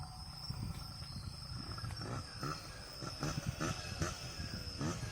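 Crickets chirping as a steady high tone over a low, uneven rumble. From about halfway through, a quick series of short rising sounds joins in.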